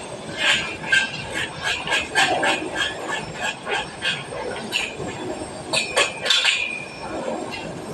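Irregular metallic clinks and knocks, several a second, with a brief high squeal about six seconds in.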